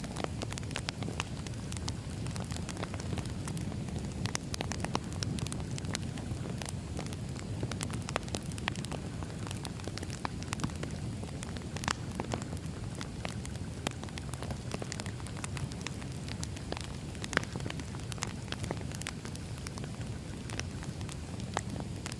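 Firewood burning with steady crackling: many sharp irregular pops and snaps over a low, steady rumble of the flames.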